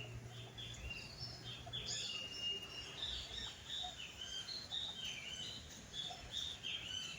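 Small birds chirping and twittering: many short, overlapping high calls.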